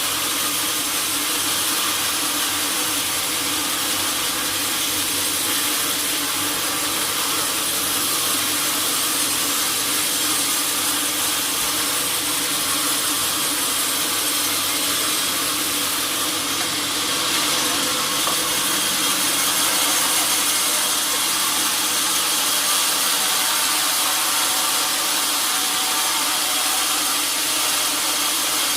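Sawmill saw cutting through a teak log: a steady, unbroken hissing whine of the blade in the wood, with the machine's motor hum underneath.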